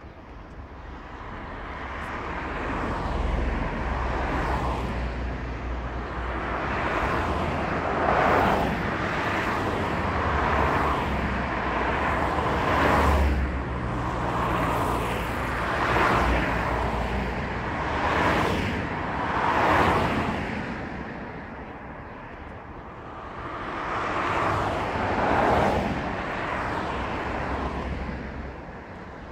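Car driving on a road: steady engine and tyre noise, with the noise swelling and fading every couple of seconds.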